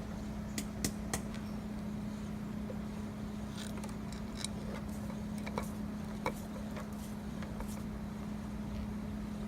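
A handful of sharp, light clicks and taps from engine parts being handled during motorcycle engine assembly, three close together in the first second or so and a few more spread through the middle, over a steady hum.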